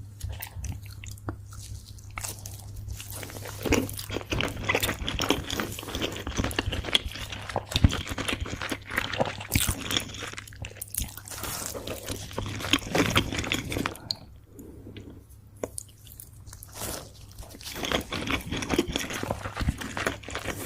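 Close-miked chewing and biting of sushi: a dense run of wet mouth clicks and smacks that eases off briefly about two-thirds of the way in, over a low steady hum.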